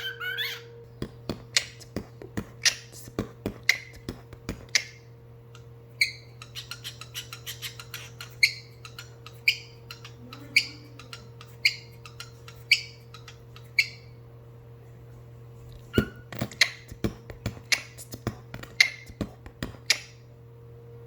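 Cockatiel making a rhythmic, beatbox-like string of sharp clicks and pops mixed with short chirps. There is a pause about two-thirds of the way through, then another burst of clicks and chirps. A steady low electrical hum runs underneath.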